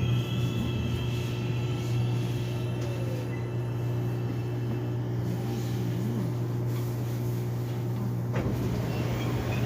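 Korean subway train (Seoul Line 1) car interior: a steady low hum of the train, with a broader rumble of noise coming in near the end.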